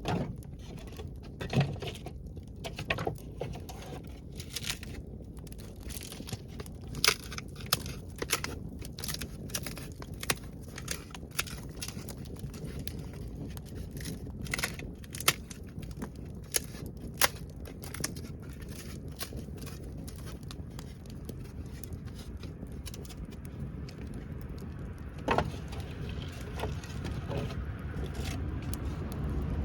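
Wood campfire crackling, with irregular sharp pops over a low steady hiss. A low rumble builds near the end.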